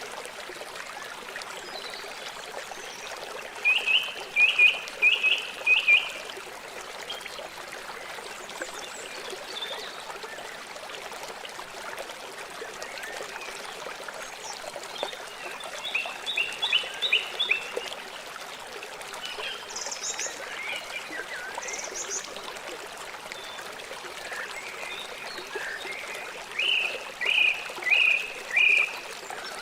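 A river or stream running steadily. Over it come short chirping calls in quick runs of four or five, three times, with a few higher, fainter notes between them.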